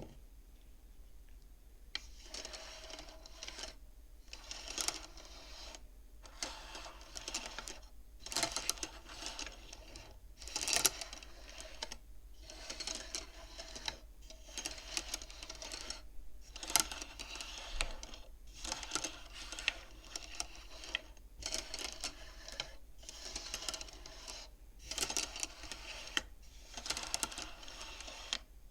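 Beads of a wooden bead abacus being slid along their rods, clacking against each other in short rattling runs every second or two, starting about two seconds in.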